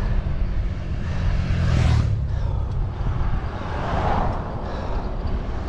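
Steady low rumble of wind and road noise on the microphone of a moving bicycle. Road traffic swells briefly about two seconds in and again about four seconds in.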